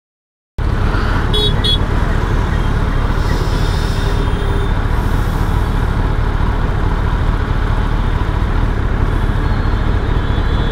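Kawasaki ZX-10R superbike idling at a traffic light amid city traffic, a steady low rumble that starts abruptly after a brief silence. Two short horn toots come about a second in, a longer horn around four seconds in, and a fainter horn near the end.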